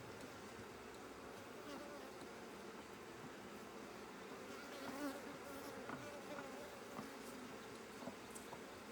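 Africanized hybrid honey bees buzzing around an opened hive: a steady hum of many wings, with the wavering pitch of single bees flying close past, a little stronger from about halfway through.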